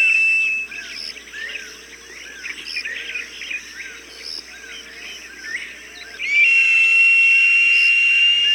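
Hawk call: a loud, long high whistle held steady, cutting off just after the start and coming back about six seconds in. Between the calls, small birds chirp in a quick repeating pattern.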